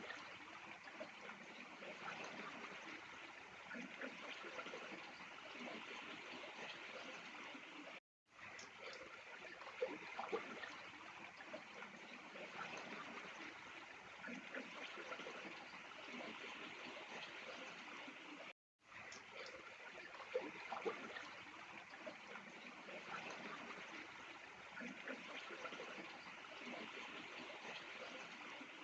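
Faint steady rushing outdoor ambience, cut off twice by brief total silences where the recording is spliced, with a few soft knocks.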